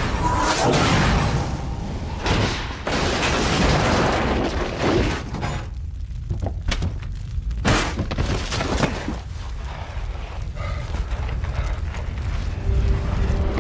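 Film sound effects of an atomic bomb blast: a continuous deep rumble broken by several heavy crashes and thuds of debris.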